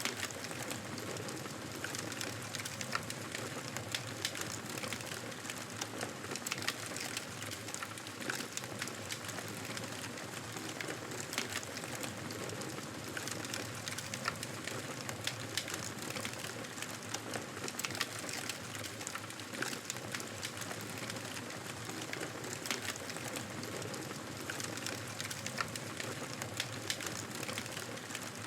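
Wood fire burning in a fireplace, crackling steadily with frequent small, sharp pops scattered irregularly over a soft hiss of flames.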